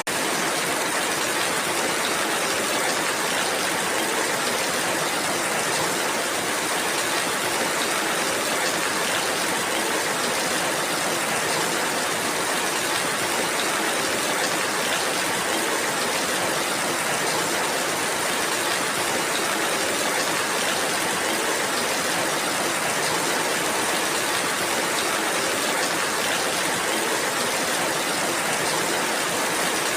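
Steady rainfall: a dense, even hiss of drops that holds at one level without lulls or gusts.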